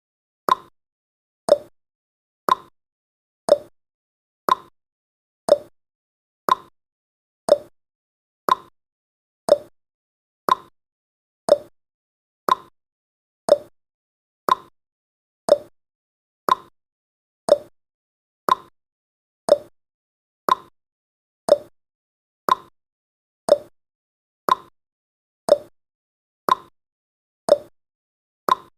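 Countdown timer's clock-ticking sound effect: one sharp tick each second, alternating higher and lower in pitch like a tick-tock.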